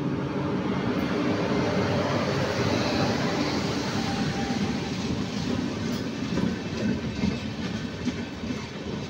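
Indian Railways freight train passing at speed: a steady rumble and rattle of wheels on the rails, with a few sharp clacks about seven to eight seconds in.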